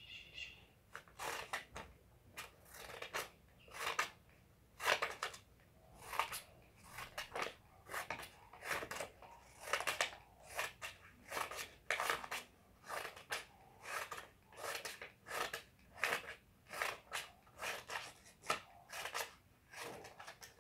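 Scissors snipping a paper strip into small pieces, a quick snip about every half second.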